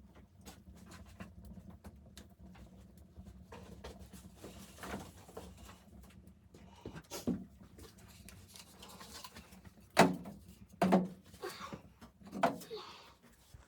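Scattered knocks and thumps over a faint steady low hum, with three louder thumps in the last few seconds.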